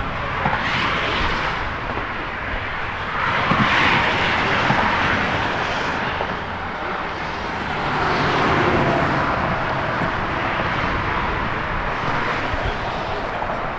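Road traffic noise from vehicles passing on a highway: a steady rushing hiss that swells and fades three or four times as cars go by.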